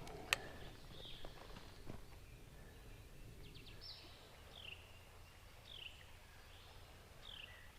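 A bird calling faintly, repeating a short down-slurred note several times over low outdoor background noise. One sharp click comes just after the start.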